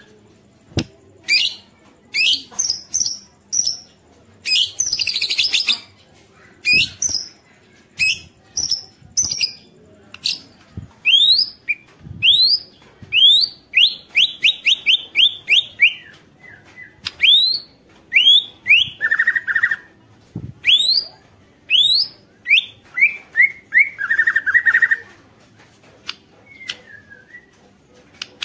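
White-rumped shama (murai batu) singing: short phrases of sharp, rising whistled notes, with a fast run of repeated notes in the middle. Harsh rattling chatters (ketrekan) break in three times, the shama's aggressive, provoking call.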